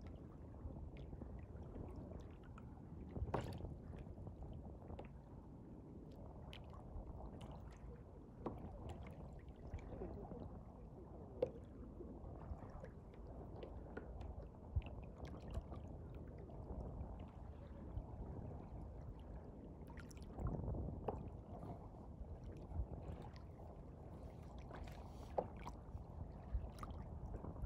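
Steady low rumble of a boat under way, with scattered short knocks.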